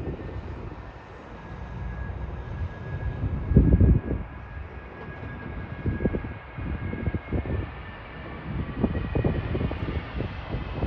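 Airbus A330 airliner's jet engines with a steady high whine that grows stronger as it comes in to land. Wind buffets the microphone in low gusts, loudest about four seconds in.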